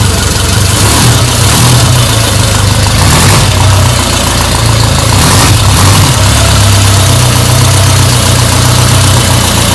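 1949 Ariel Square Four motorcycle's four-cylinder square-four engine idling steadily through its exhaust on its first run after a rebuild from parts of three machines.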